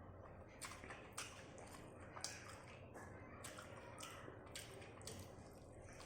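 Faint chewing and wet mouth smacks of someone eating rice with pork gravy, a dozen or so irregular short clicks, the sharpest about two seconds in.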